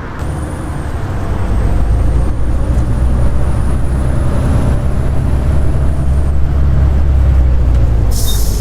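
Volvo B7TL bus's six-cylinder diesel running loud, growing louder over the first two seconds, with a thin high-pitched whine over it, the "hoover" sound. Near the end comes a short hiss of air with a single high beep.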